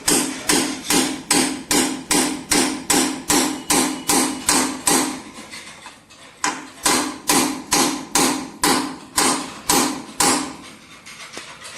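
A hammer striking metal in a steady rhythm, about three blows a second, each blow leaving a short ring. It breaks off for about a second midway, resumes at the same pace, and stops about a second before the end.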